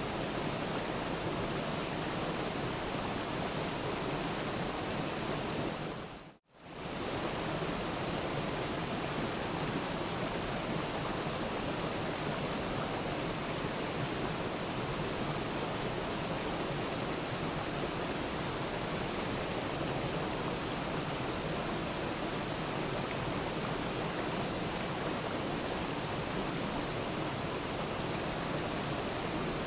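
Waterfall rushing in a steady, even wash of noise. About six seconds in it fades briefly to silence and straight back, as at a loop join.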